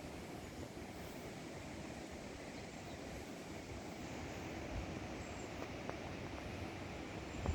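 Steady forest ambience: wind in the trees with a low rumble of wind on the phone's microphone. A couple of faint, short high chirps come near the end.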